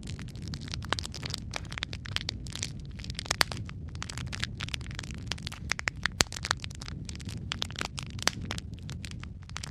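Burning wood logs in a fireplace crackling: frequent, irregular sharp pops and snaps over a steady low rumble of the flames.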